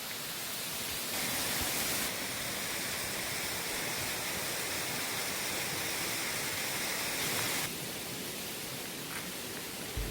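Steady hiss of heavy rain and a rushing stream. It steps up louder and brighter about a second in and drops back abruptly near the eight-second mark.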